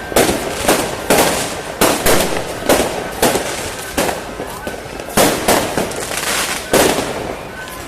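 Fireworks going off in an irregular string of sharp bangs, roughly one or two a second, over a steady crowd din.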